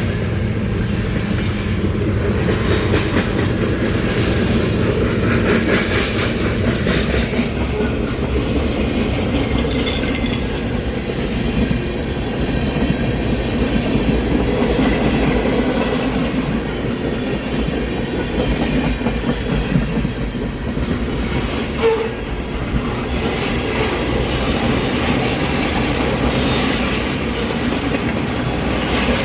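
Freight train's cars rolling steadily past, a continuous rumble of steel wheels on rail with clickety-clack over the rail joints.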